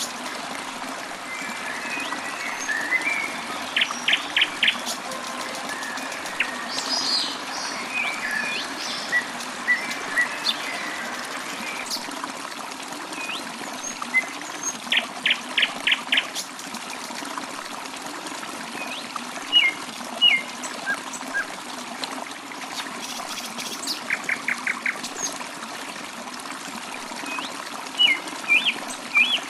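Water trickling steadily with birds chirping over it. Several times a bird gives a quick series of four or five identical notes, about four a second, between scattered single chirps.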